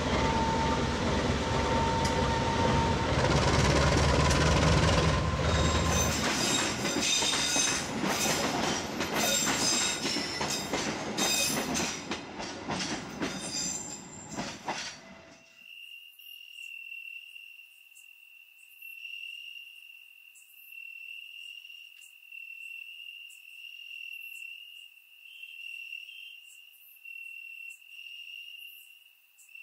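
A train passing: a heavy rumble, then wheels clattering over the rail joints, fading away about halfway through. Crickets then trill steadily.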